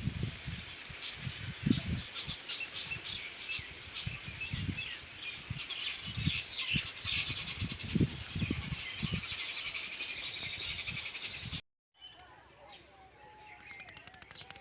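A chorus of small birds chirping and twittering, with irregular low thumps underneath. The sound drops out briefly near the end, after which fainter bird calls continue.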